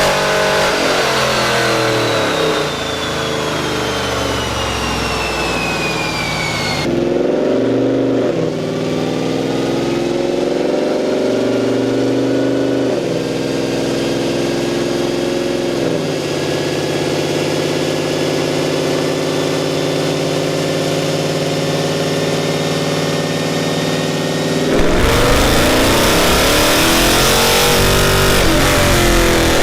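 5.7-litre Hemi V8 with long-tube headers running on a chassis dyno during tuning: a high whine falls away over the first several seconds, then the engine holds steady at part throttle while the drivetrain whine slowly climbs, and near the end it opens up much louder into a hard pull.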